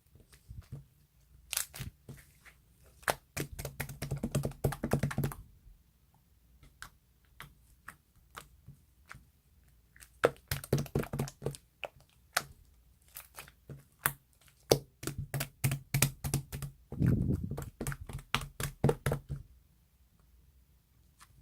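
Computer keyboard typing in quick runs of key clicks, broken by pauses of a second or two.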